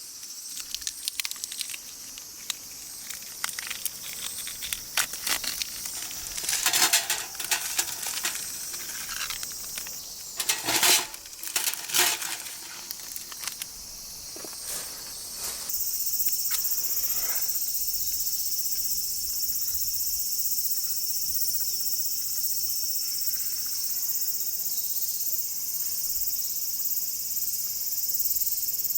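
Scattered small clicks and crackles with a few louder bursts, then about halfway through a steady high chirring of insects sets in and holds.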